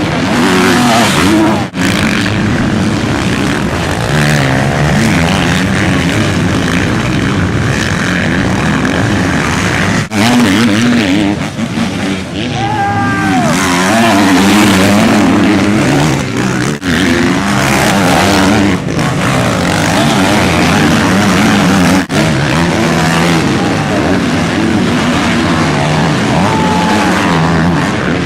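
Motocross bikes' engines revving and changing pitch continually as they race, with several abrupt breaks where the sound cuts from one stretch to another.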